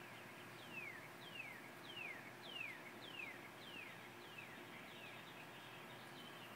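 A bird calling a faint series of about ten short notes, roughly two a second, each sliding down in pitch; the middle notes are the loudest.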